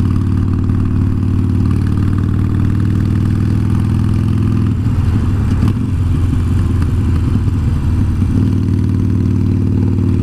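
Harley-Davidson Iron 883 Sportster's air-cooled V-twin engine running at a steady note, which wavers and breaks up for a few seconds in the middle before settling again.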